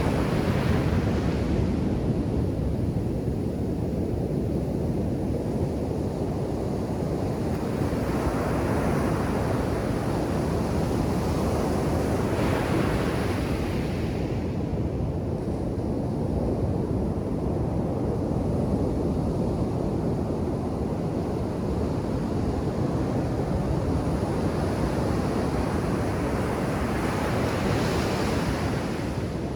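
Ocean surf on a sandy beach: a steady rumble of breaking waves, with the hiss of a wave washing in rising and falling every several seconds.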